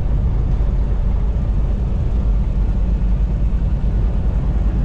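Semi truck driving on the highway, heard inside the cab: a steady low rumble of engine and road noise.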